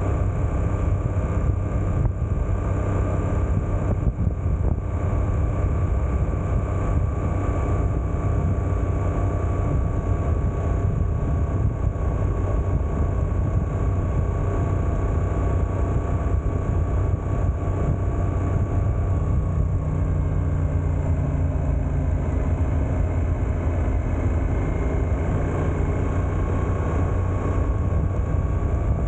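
Suzuki GSX-8S's 776 cc parallel-twin engine running steadily under way in second gear at about 45 km/h, with a slight change in its note about twenty seconds in.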